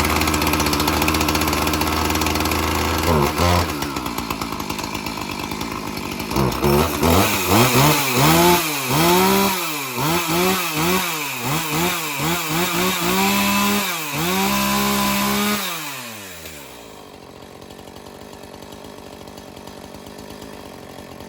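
A 2007 Husqvarna 450 two-stroke chainsaw running after a cold start from long storage. It runs steadily at first; from about six seconds in the throttle is blipped over and over, the engine revving up and dropping back. About sixteen seconds in the engine note falls away.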